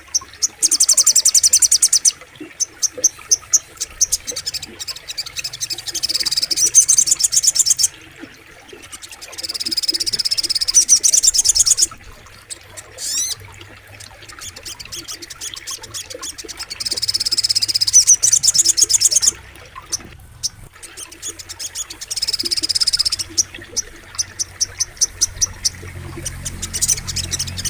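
A sogok ontong bird singing rapid, high-pitched trilling phrases a few seconds long, with short pauses between them.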